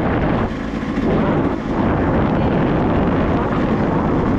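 Dirt bike engine running under throttle while riding, with wind rushing on the microphone; the level dips briefly twice, about half a second and a second and a half in.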